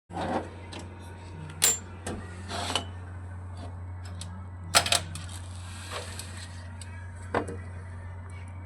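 Metal tools and parts clinking and knocking in irregular single strikes, two of them louder, over a steady low hum.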